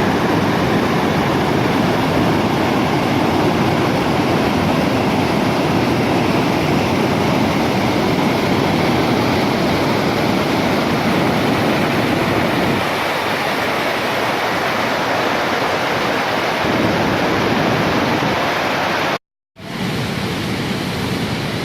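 Waterfall pouring, a loud, steady rush of falling water. It cuts out for an instant near the end, then carries on a little quieter.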